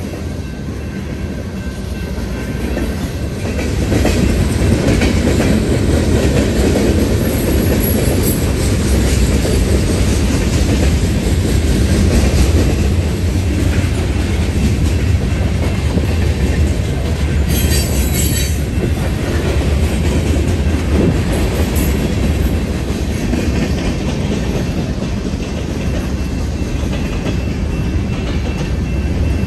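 A train rolling past at trackside, its wheels rumbling over the rails and growing louder about four seconds in. A brief high-pitched wheel squeal comes about two-thirds of the way through.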